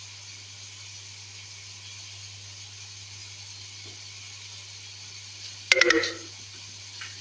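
Pan of ghee and spices frying on the hob, a steady low sizzle. A short loud sound cuts in briefly near the end.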